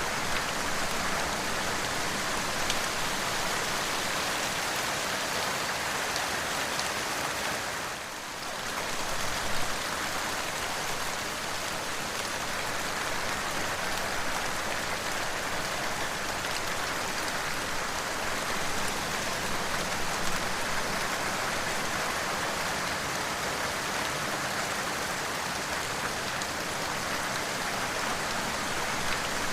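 Steady heavy rain falling, an even dense hiss with a brief dip in level about eight seconds in.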